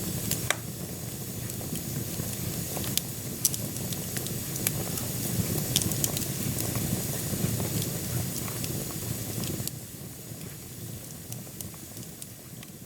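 Wood fire burning in a wood-burning stove: a steady low rumble of the flames with sharp, irregular crackles and pops from the burning logs. The rumble drops somewhat about ten seconds in.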